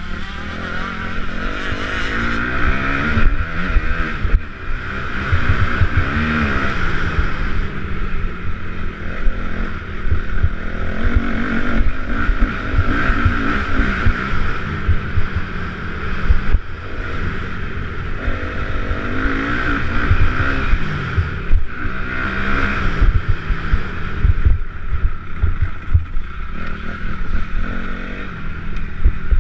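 Motocross bikes racing, engines revving up and down and swelling several times as they pass, with wind buffeting the microphone.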